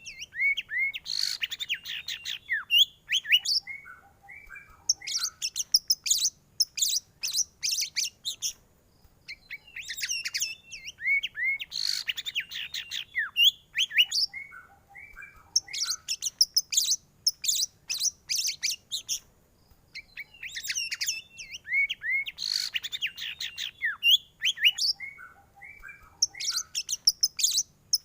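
White-rumped shama (murai batu) singing a rapid, varied song of high chirps and trills, each phrase ending in a few lower notes. The same sequence of phrases comes back about every ten seconds.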